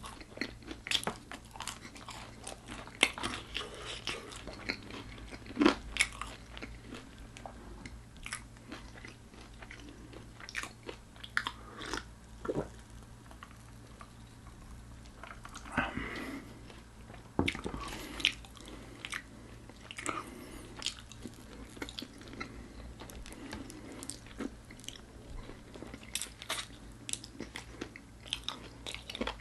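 Close-miked eating sounds: crispy fried chicken crunching as it is bitten and chewed, many irregular sharp crackles with louder bites now and then.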